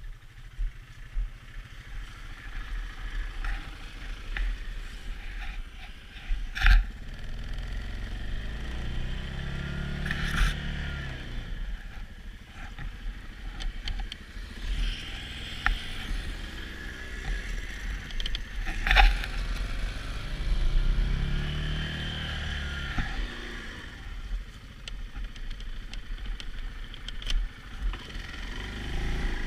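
Tracked Yamaha Grizzly ATV running through snow, its engine revving up and easing off twice, with scraping and clattering from the tracks. Two sharp knocks stand out, about a quarter of the way in and about two-thirds in.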